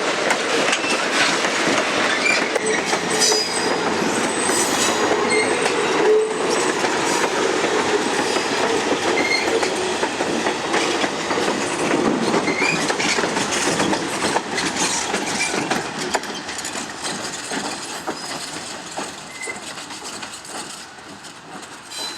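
A train rolling past: wheels clicking over the rail joints, with brief high flange squeals. It fades steadily as it moves away over the last several seconds.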